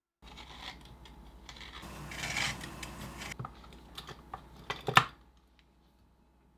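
Small clicks and clinks of hard objects being handled, with a brief rustling swell in the middle and one sharp, louder click about five seconds in, over a low steady hum; it goes quiet near the end.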